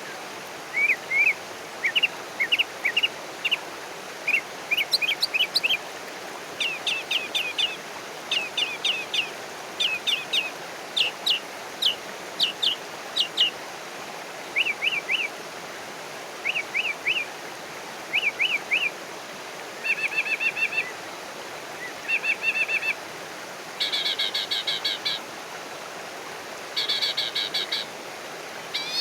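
Wild songbirds chirping in short, repeated phrases of quick notes, over a steady background hiss. From about two-thirds of the way in, harsher buzzy calls come in four separate bursts.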